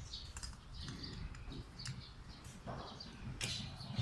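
Faint scattered clicks and taps of airsoft rifle parts being handled, with birds chirping in the background.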